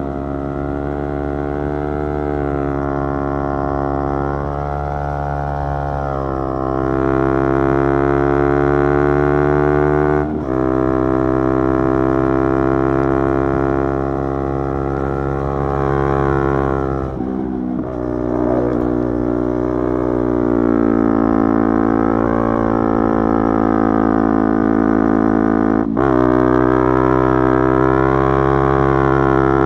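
Yamaha YZF-R3's parallel-twin engine and exhaust under way, holding a fairly steady note that rises and sags slightly with the throttle. The note breaks off briefly about 10, 17 and 26 seconds in, as at gear changes, and picks up again.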